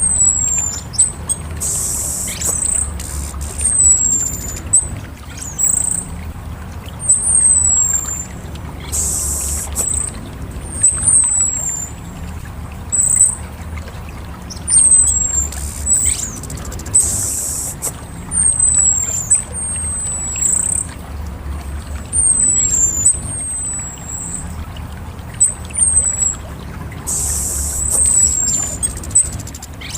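Orange-headed thrush calling: a thin, very high note that slides down in pitch, repeated about once a second. Every several seconds it is broken by a short, harsh rasping burst, all over a steady low hum.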